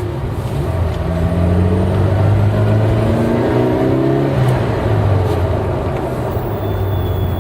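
Car's eight-cylinder engine under way: its pitch climbs for a couple of seconds, drops abruptly about four and a half seconds in, then runs steadily.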